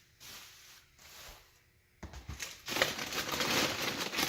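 Bubble wrap being unwrapped and crumpled by hand: two soft rustles, then from about two seconds in a loud, dense crinkling.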